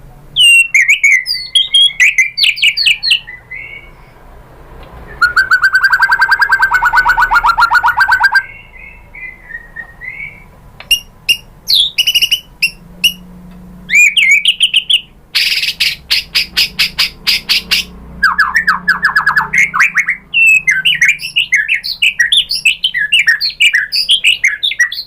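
White-rumped shama singing loudly in quick bursts of whistled and chattering phrases. The bursts are broken by fast rattles; the longest is a buzzing rattle lasting about three seconds, starting about five seconds in.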